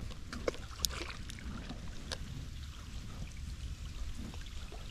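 Light rain: scattered drops ticking over a steady low rumble, with a faint trickle of water.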